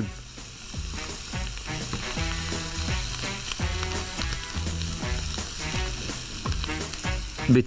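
Okra sizzling as it fries in hot oil with spices in a pan, stirred and turned with a wooden spatula.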